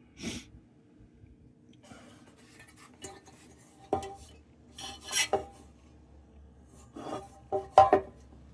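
Metal clinking and scraping: tools knocking against the thin sheet-metal lantern parts during soldering. There are about five sharp clanks, each with a brief ring, and the loudest comes near the end, with light scraping between them.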